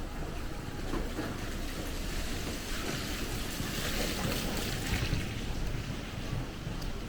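Steady rain hiss with low wind rumble on the microphone; the hiss swells briefly about four seconds in.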